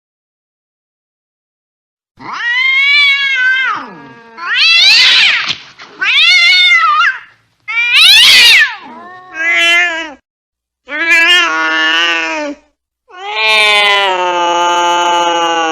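An angry cat yowling: after about two seconds of silence comes a run of about seven loud, wavering caterwauls, some rising and falling in pitch. The last is long and drawn out, the threatening yowl of an aggressive cat.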